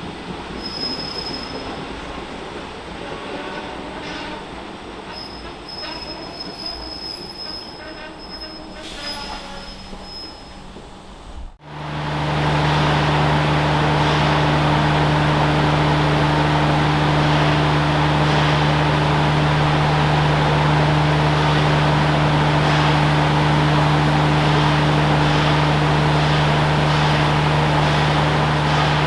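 Train on the rails: a thin high squeal comes and goes at first. Then, after an abrupt change, a much louder steady running sound with a constant low hum continues to the end.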